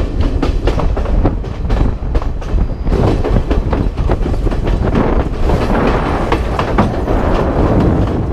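Passenger train running, its wheels clacking over the rail joints, heard from a camera held just outside the carriage. After about three seconds the clacks thin out into a steady rushing noise.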